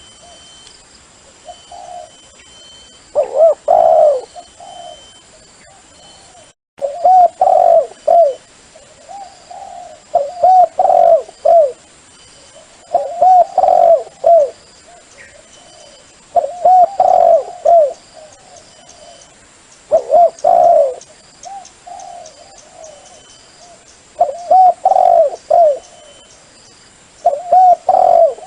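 Dove cooing: short, loud phrases of several coos repeated about every three to four seconds, a call recording used to lure wild doves.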